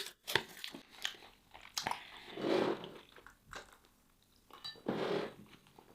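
Close-up mouth sounds of a person eating a soft meat dish: wet chewing with scattered small clicks and smacks, and two longer, softer swells of sound about halfway through and near the end.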